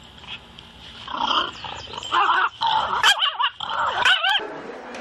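A dog vocalising in a string of wavering, pitched whines that bend up and down, starting about a second in and stopping a little after four seconds.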